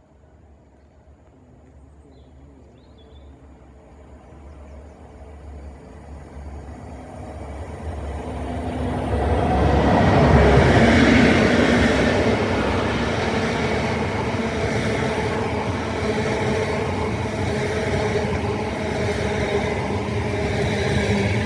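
A train approaching and passing, growing steadily louder over about the first ten seconds, then running loud and steady.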